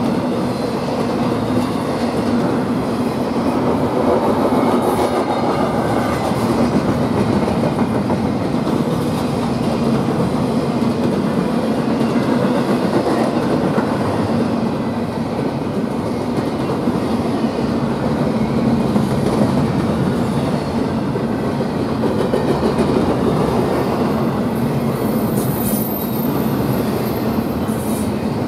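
Double-stack container freight train passing close by: steady rolling noise of the well cars' steel wheels on the rails, with some clickety-clack.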